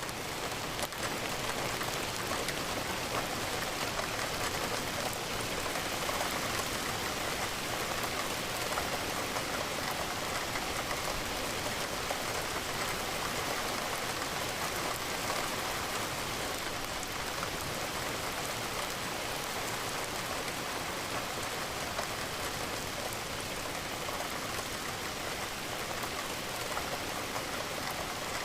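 Steady rain: a dense, even patter of raindrops falling against a window pane.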